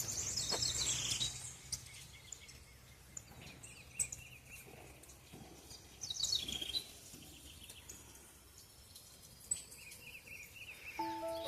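Songbird singing outdoors: two loud phrases of quick falling trilled notes, one at the start and another about six seconds in, with softer chirps between and near the end.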